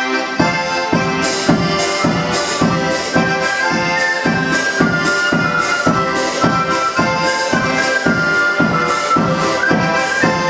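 Instrumental introduction to a Ukrainian folk song, accordion over a steady beat, starting abruptly.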